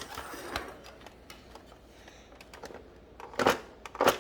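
Plastic toy being handled and pressed: scattered small clicks and taps, with two louder knocks near the end as the toy's tomb is worked open.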